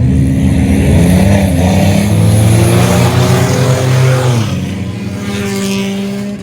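Race car engines running hard as cars pass close by, several overlapping engine notes; about four and a half seconds in the pitch drops and the sound fades as they move away.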